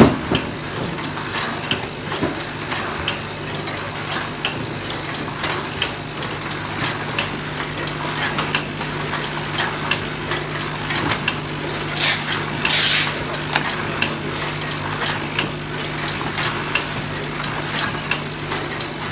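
Chewing gum overwrapping machine running: a steady motor hum with a regular, rapid clicking from the wrapping mechanism, and a brief hiss about twelve seconds in.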